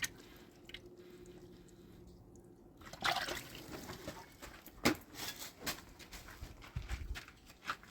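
Water being handled, with splashes and dribbles among a few short knocks and clatters; a faint steady hum in the first few seconds.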